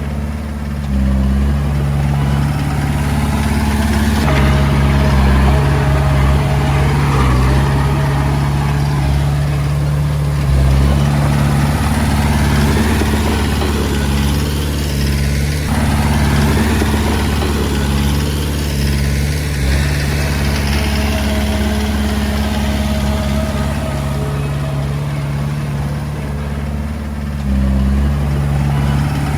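Komatsu D20A bulldozer's diesel engine running steadily under working load, its note shifting up and down a few times, with a rough clatter above it.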